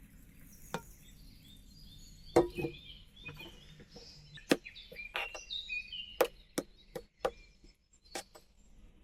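About a dozen sharp, irregular knocks and clicks, the loudest about two and a half and four and a half seconds in, with birds chirping in the background.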